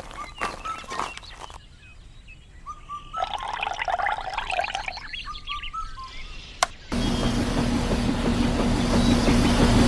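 A few sharp clicks and knocks, then birds chirping. About seven seconds in, a small motor starts abruptly and runs steadily, a hum under a loud rushing noise.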